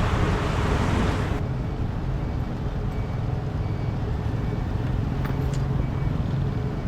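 Riding a motorbike through city traffic: the bike's engine hums steadily under road and traffic noise. A loud hiss over the top cuts off suddenly about a second and a half in.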